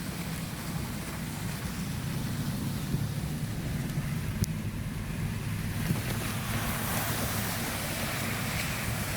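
Vehicle driving on a wet road with a side window rolled down: a steady low road and engine drone under tyre spray and wind rushing past the open window. The hiss grows louder about six seconds in.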